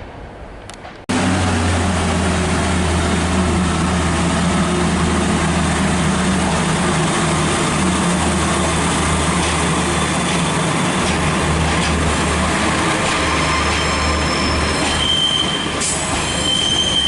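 A Class 142 Pacer diesel railcar departing, its engine running loud and steady with a low drone. A high wheel squeal joins near the end.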